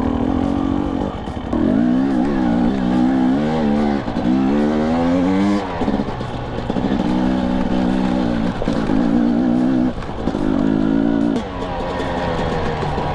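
Husqvarna TE250i two-stroke dirt bike engine revving up and down in pitch as it is ridden on a trail, with brief drops off the throttle a few times.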